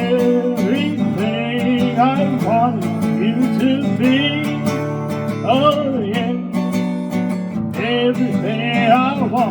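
Guitar music without singing: a melodic lead line that bends and slides in pitch over a steady strummed backing.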